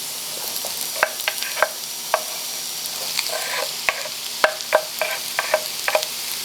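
Food sizzling in a frying pan while being stirred, with a utensil clicking and scraping against the pan about fifteen times at irregular intervals over the steady sizzle.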